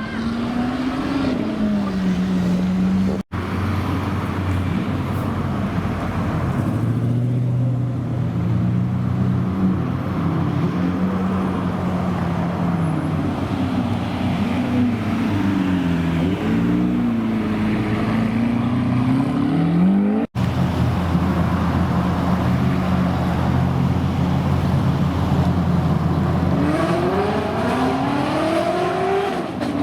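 Supercar engines idling and being blipped, their pitch repeatedly rising and falling, with rising revs near the end. The sound cuts abruptly twice as the clips change.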